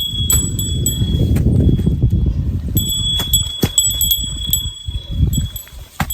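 A small bell jingling again and again in step with walking, each strike ringing with a clear high tone, over low wind rumble on the microphone.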